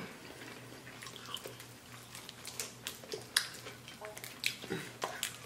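Close-up eating sounds of fried chicken wings being chewed and pulled from the bone: irregular crunches, wet mouth clicks and smacks scattered throughout.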